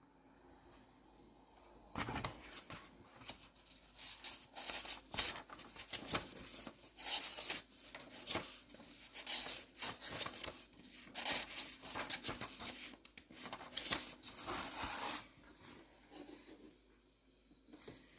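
Irregular rustling and rubbing handling noise in uneven bursts, fading away shortly before the end.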